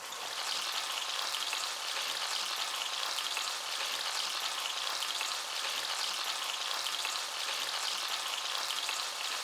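Chicken leg fillets frying in oil in a pan, a steady sizzling crackle.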